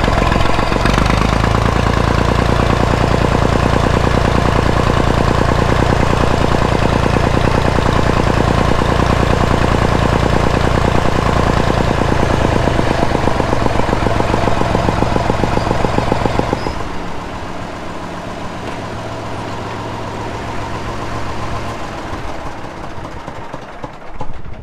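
Vintage Massey Ferguson 35 tractor engine running hard with a steady beat. About 17 seconds in, it drops abruptly to a much quieter, lower run.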